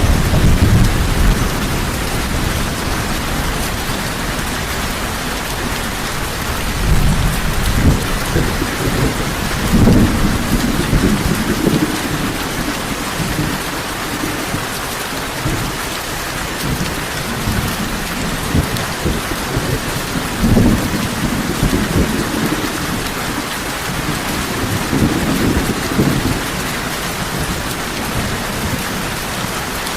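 Heavy rain falling steadily, with low thunder rumbling in several swells through it.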